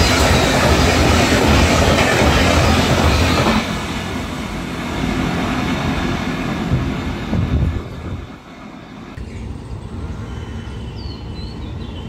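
Shatabdi Express coaches rushing past at speed, a loud steady rush of wheels on rail. About three and a half seconds in it cuts abruptly to a quieter train sound, and near eight seconds it drops to a low steady background.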